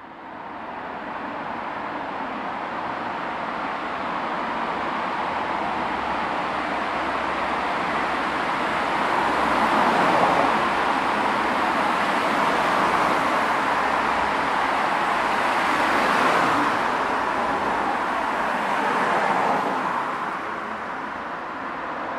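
Road traffic noise: a steady rush of vehicles, swelling twice as vehicles pass close by.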